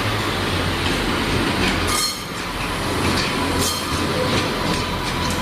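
A train moving along the platform, wheels rumbling steadily on the track, with short high-pitched wheel squeals and clanks several times.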